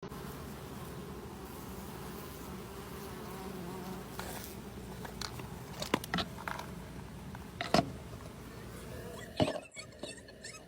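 Honey bee colony humming in a hive box, heard through a homemade contact pickup pressed against the box: a steady low hum, with a few sharp clicks or knocks at about six, eight and nine and a half seconds in.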